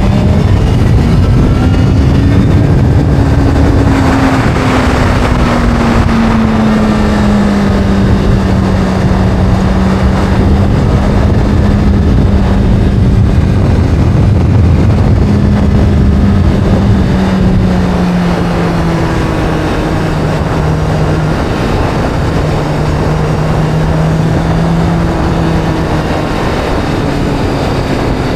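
Sport motorcycle engine sound from a video-game ride, running at steady cruising revs. Its pitch rises a little about three seconds in, then slowly sinks and drops lower near the end.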